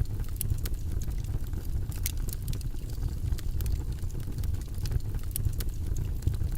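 Steady low, rumbling white-noise background track, with scattered light clicks over it.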